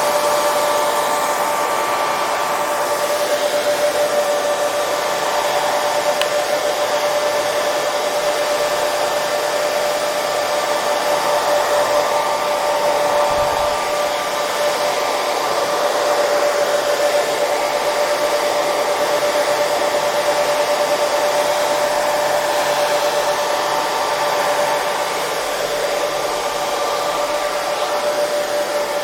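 Hair dryer running steadily, a continuous rush of blown air with a steady motor whine on top, unchanging throughout.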